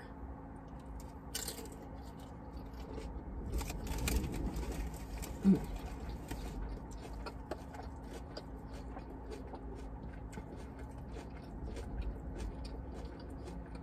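Close-up chewing and mouth sounds of a person eating a sub sandwich: many small irregular wet clicks. A short 'mm' comes about five and a half seconds in.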